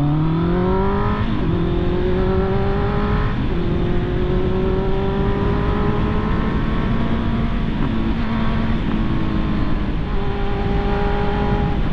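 Honda CB650R inline-four motorcycle engine accelerating through the gears: its pitch climbs, drops at upshifts about a second in and again about three seconds in, then holds fairly steady while cruising.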